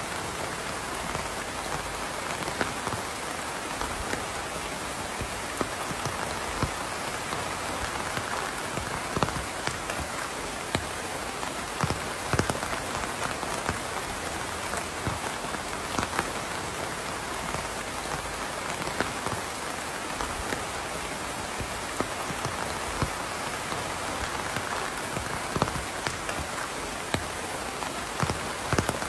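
Steady rain falling on a surface, an even hiss with scattered louder individual drops hitting close by.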